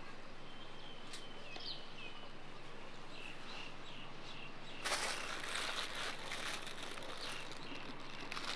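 Small birds chirping in short repeated calls over steady outdoor background noise, with a louder burst of rustling and clicks about five seconds in.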